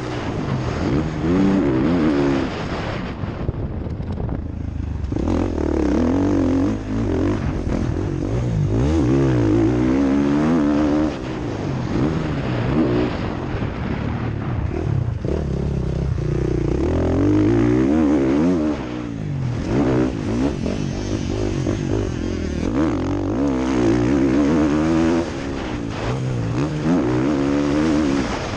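Motocross bike engine heard onboard, repeatedly revving up and falling back as the rider works the throttle and gears around the track. Near the start the engine note drops away for about two seconds before picking up again.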